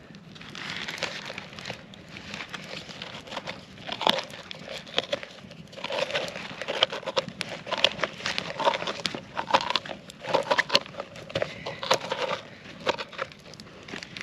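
A pumpkin being hollowed out by hand: irregular scraping, rustling and clicking as the seeds and pulp are scooped out, with short squeaky scrapes in the second half.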